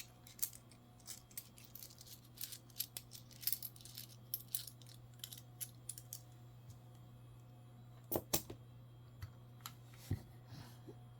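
Coins being handled on a desk: faint irregular clicks and small clinks as they are moved, with two sharper clicks about eight seconds in, over a faint steady low hum.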